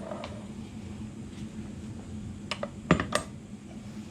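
Sharp metallic clinks of steel universal-joint parts knocking against each other and the drive shaft yoke: a faint one, then two loud ones close together about three seconds in.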